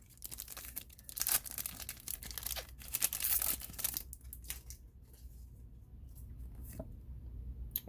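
A Pokémon TCG booster pack's foil wrapper being torn open and crinkled in the hands, for about the first four seconds. After that come fainter, scattered rustles and clicks as the cards inside are handled.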